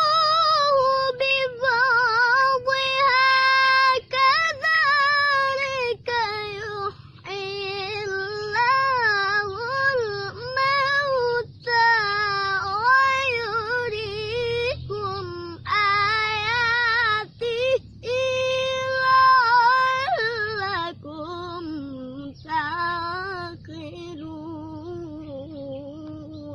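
A young boy's high voice reciting the Quran in the melodic tilawah style, drawing out long, ornamented notes with short breaks for breath. The pitch sinks lower over the last few seconds.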